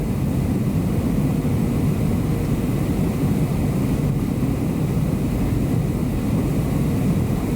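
Steady rumble of a Boeing 737-700's CFM56 engines and airflow heard inside the cabin, strongest in the low range with a faint steady hum on top.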